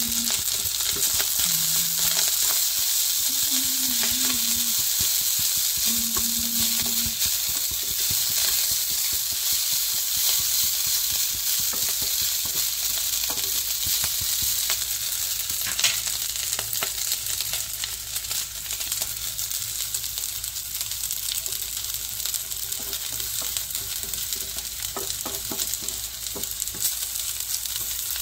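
Chicken fried rice frying and sizzling in a hot pan as it is stirred, with scattered clicks of the utensil against the pan. The sizzle eases slightly over the second half.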